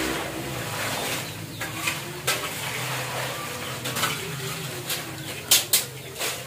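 Krupuk crackers sizzling as they fry in a large wok, stirred with a long spatula and metal strainer, with scraping and clattering against the wok. Two sharp clacks come close together near the end.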